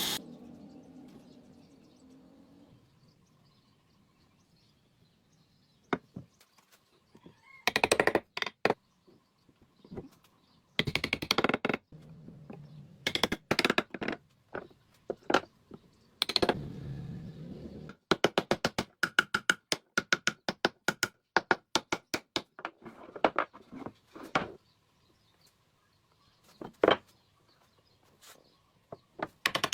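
Bursts of sharp wooden knocking and rapid clicking, typical of hand work on wood, with quiet gaps between. Some runs come at about ten clicks a second.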